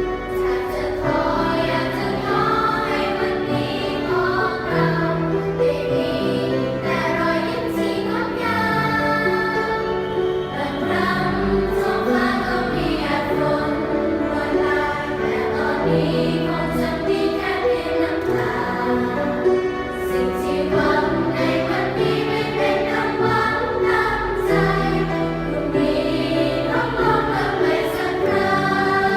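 A youth choir singing a pop song in harmony, with a sustained low accompaniment underneath.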